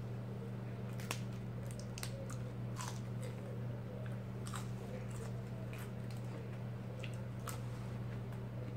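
A person eating close to the microphone, chewing and biting with irregular crisp clicks and crunches. A steady low hum runs underneath.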